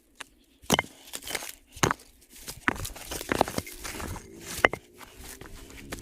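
Irregular crunching, scraping strokes, about one every half second to a second, typical of hand digging in earth and stones.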